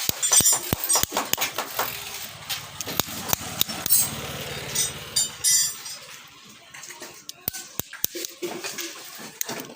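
Metal parts and hand tools clicking and clinking as a motorcycle timing chain tensioner is worked on, with a steady rough rasping stretch in the middle.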